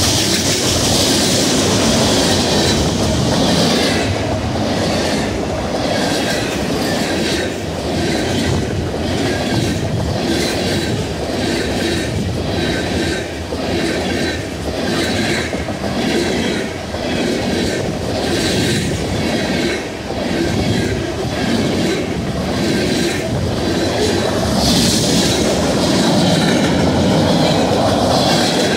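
Freight train cars, open-top hoppers and gondolas, rolling past close by, their steel wheels clacking over rail joints about once a second over a steady rumble. A brighter high hiss near the start and again about 25 seconds in.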